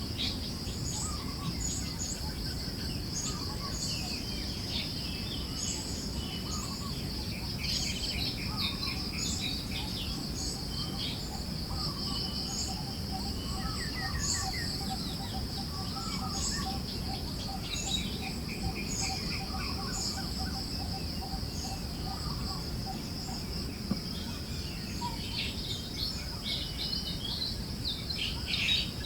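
Forest birds chirping in short scattered calls over a steady high insect trill and a low, even rush of wind. A rapid, evenly pulsed call runs through the middle.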